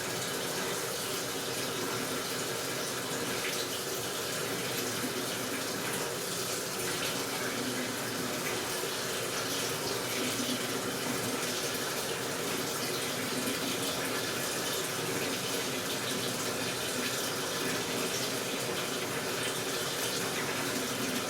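AQUA washing machine filling its tub with water: a steady rush of running water.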